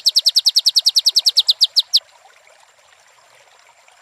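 White-rumped shama singing a fast trill of short, down-slurred whistled notes, about a dozen a second, which stops about halfway through. A faint steady hiss continues underneath.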